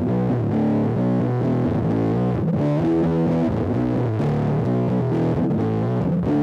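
Squier Starcaster electric guitar played through a Big Ear Pedals LOAF medium-gain fuzz pedal, strumming a continuous run of thick, woolly fuzzed chords. The sound is full in the lows, with the brittle high end rolled off.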